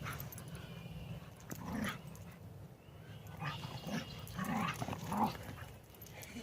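Dogs playing, giving short, scattered vocal sounds: a few brief growls or whines, about four over several seconds.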